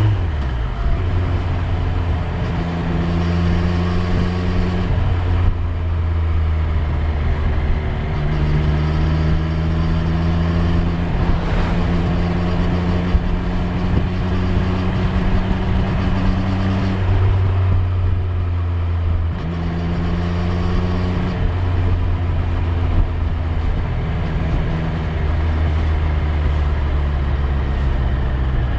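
Triumph Street Triple 765 R's inline three-cylinder engine running steadily under way, its pitch holding level for several seconds at a time and stepping up or down a few times as the throttle or gear changes.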